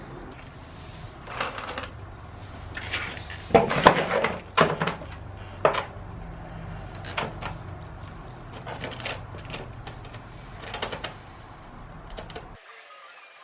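Irregular clanks and knocks of metal engine parts and hand tools being handled while a small pressure-washer engine is taken apart, loudest about four seconds in. A low steady hum under them cuts out near the end.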